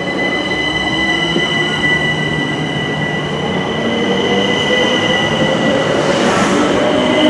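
Electric multiple-unit train running through the station, growing louder, with steady high-pitched squealing and a traction-motor whine that rises steadily in pitch as it accelerates.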